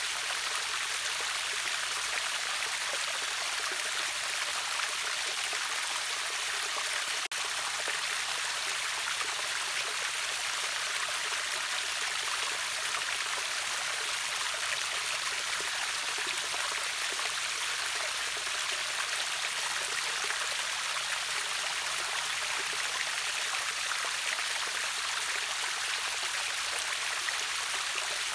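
River waterfall: a steady rush of falling and splashing water, mostly high hiss with little low rumble. About a quarter of the way through the sound drops out for an instant.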